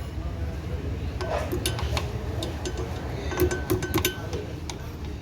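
Metal tools and parts clinking and tapping against each other in two short clusters, one brief strike ringing on, over a steady low hum.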